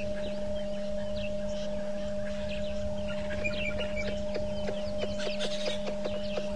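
Wild birds calling, with many short high chirps and a run of quick clucking notes in the second half, over a steady low electrical hum.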